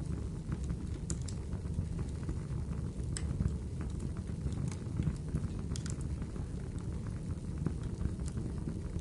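Wood fire burning in a fireplace: a steady low rumble of the flames with continuous soft crackling and scattered sharp pops and snaps of the burning wood.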